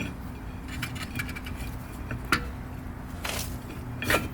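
A few light metallic clicks and clinks from brake parts being handled and fitted back onto the car, with a short scrape about three seconds in.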